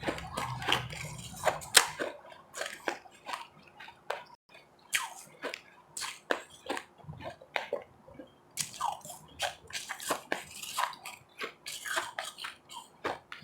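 Ice being chewed and crunched close to the microphone: a quick, irregular run of sharp crunches, roughly two a second, with a short pause about four seconds in.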